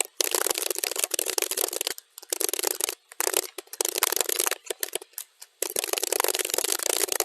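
Computer keyboard typing in rapid runs of key clicks, sped up to double speed, with a few short breaks and a pause of about a second near the middle.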